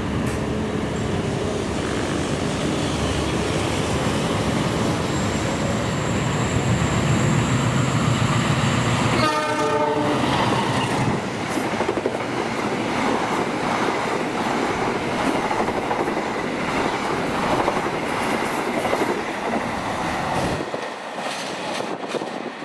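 A diesel locomotive hauls a passenger train through the station without stopping. The engine drone grows over the first nine seconds and drops sharply as the locomotive passes. The carriages' wheels then clatter over the rail joints for about ten seconds before dying away near the end.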